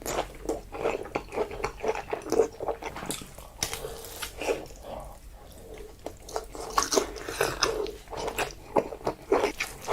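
Close-miked eating of spicy instant noodles: irregular wet chewing with many quick mouth clicks and smacks.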